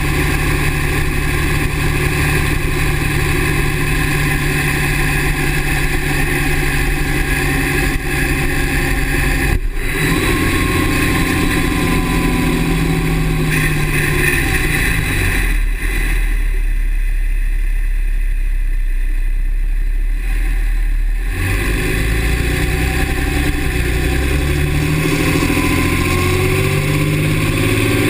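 A 2009 Dodge's 6.7 L Cummins inline-six turbodiesel running, its engine speed shifting several times. Partway through, the higher-pitched part of the sound drops away for about five seconds, then returns.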